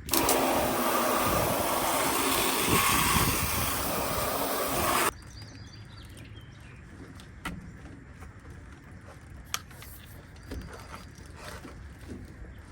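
Water spraying hard from a hose nozzle as a loud steady hiss that starts abruptly and cuts off suddenly about five seconds in. After it come a few light clicks and knocks, with faint bird chirps.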